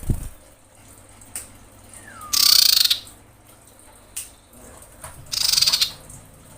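A female common iora gives a harsh, buzzy call twice, about three seconds apart, each lasting about half a second. It is the call of a female in breeding condition calling for males.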